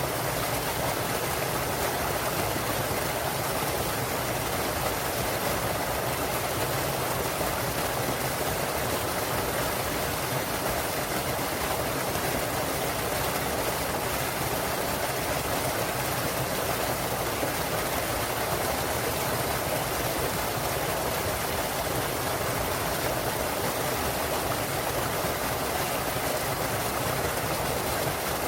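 Small waterfall and mountain stream, a steady rush of falling and flowing water.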